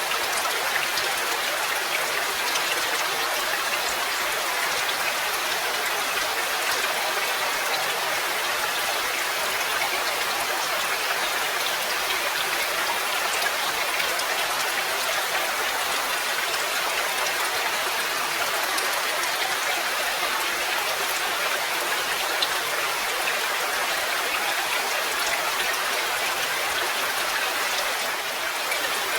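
Steady rain falling: a dense, even hiss with a fine patter of drops that holds level throughout.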